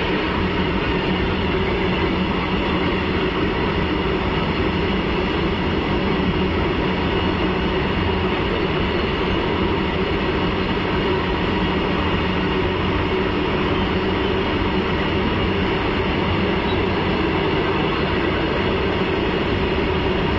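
Freight train passing at speed, a steady, unbroken rumble of wagon wheels on the rails.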